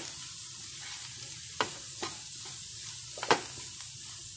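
Potato strips sizzling in oil in a nonstick frying pan, stirred with a wooden spatula. Over the steady sizzle the spatula knocks against the pan three times, the loudest a little after three seconds in.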